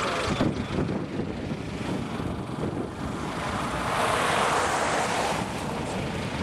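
Road and wind noise from a moving car: a steady low rumble, with a hissing swell about four seconds in.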